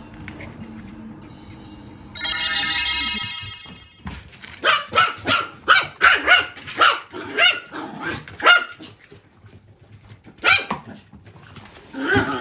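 Toy poodle puppy barking: a run of about ten sharp, high barks, two or three a second, then two single barks near the end. Before the barking, a high steady tone with many overtones lasts about a second and a half.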